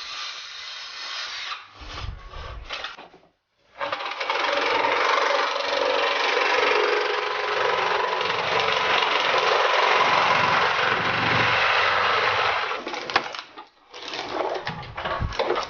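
Power saw running and cutting through wood in one long steady pass that stops suddenly, with scattered knocks and clatter after it.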